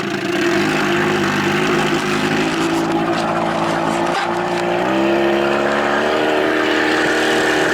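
Johnson 25 hp outboard motor running under throttle on a small boat, its pitch stepping up about half a second in and again near five seconds in as it speeds up.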